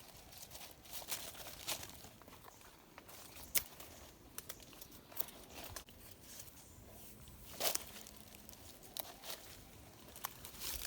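Irregular dry crunches and sharp snaps, a dozen or so scattered through, from sticks and brush being cut and handled.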